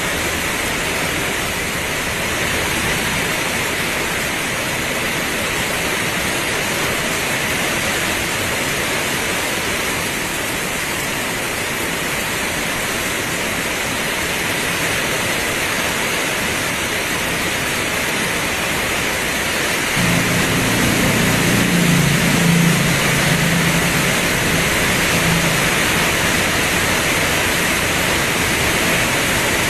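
Heavy rain pouring, a steady hiss. About twenty seconds in, a low drone joins and runs on, making the whole a little louder.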